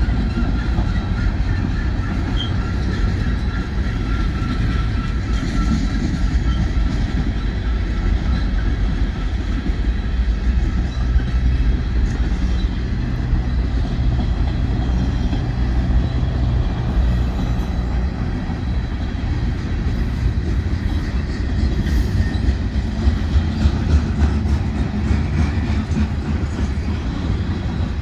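Freight cars of a manifest train rolling past: a steady rumble and rattle of steel wheels on the rails. A faint thin whine from the wheels fades out over the first several seconds.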